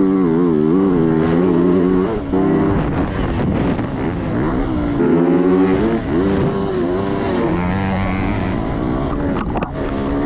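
Dirt bike engine running hard as it is ridden round a track, its pitch rising and falling as the throttle is opened and closed, with brief drops about two seconds in, around the middle, and near the end.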